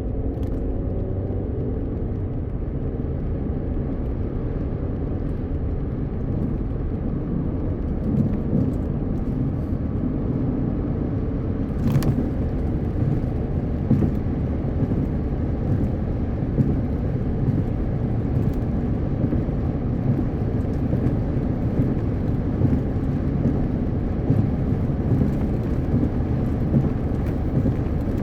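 Car driving at highway speed: a steady rumble of tyres and road. From about eight seconds in, short sharp knocks come every second or two.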